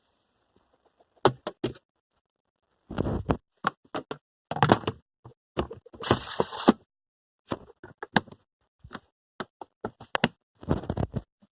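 An irregular series of sharp knocks and thuds with a few short bursts of rustling noise, the longest about six seconds in.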